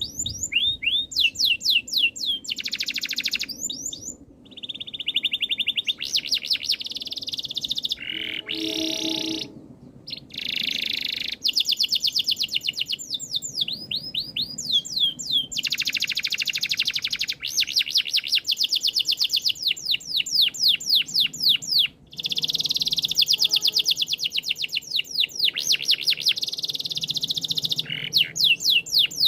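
Domestic canary singing: long, fast trills and rolls of rapidly repeated high notes, phrase after phrase, with short pauses between them.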